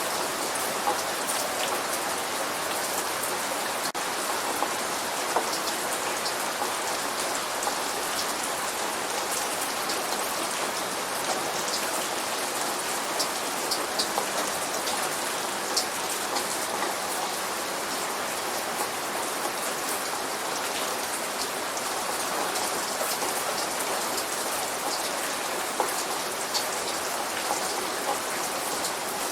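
Steady light rain, with individual drops ticking sharply on a surface throughout. No thunder.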